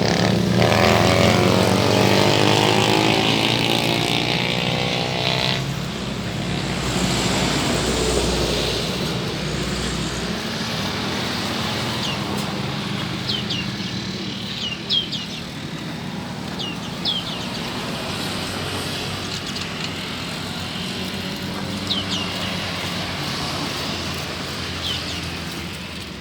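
Road traffic going by, loudest in the first few seconds as a vehicle passes, over a steady engine hum. Short high bird chirps come now and then through the second half.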